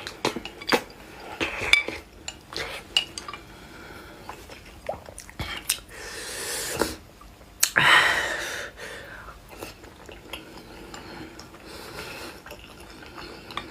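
Close-miked eating sounds: chewing of spicy noodles and egg, with scattered clicks of utensils against a bowl. There are noisy mouth sounds about six seconds in and a louder one about eight seconds in.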